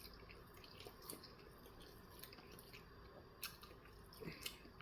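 Faint chewing of a steak, egg and cheese bagel sandwich, with soft wet mouth clicks now and then, the clearest about three and a half seconds in and again near the end; otherwise near silence.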